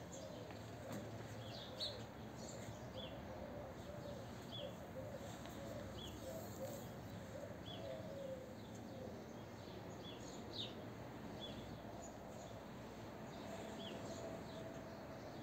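Faint outdoor birdsong: a small bird giving short, high, downward-sliding chirps roughly once a second, over steady background noise.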